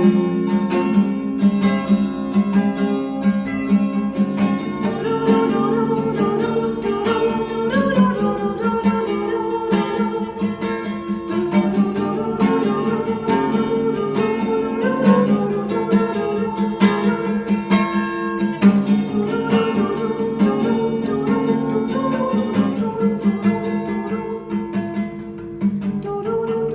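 Acoustic guitar strummed in steady chords, an instrumental passage with no singing.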